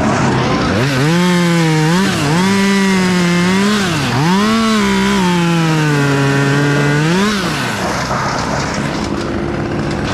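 Two-stroke chainsaw cutting into a white oak, running at full throttle with its engine note dipping and recovering several times as it loads in the cut. About seven and a half seconds in, the pitch drops to a lower, steadier run.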